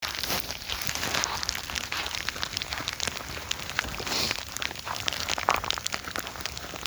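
Freezing rain in an ice storm ticking and pattering on icy surfaces: a dense, irregular scatter of sharp little ticks over a steady hiss.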